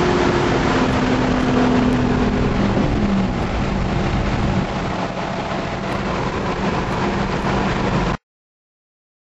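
Corvette Z06's V8 and wind and road noise heard inside the cabin at highway speed, the engine note falling in pitch over the first three seconds and then holding steady. The sound cuts off abruptly about eight seconds in.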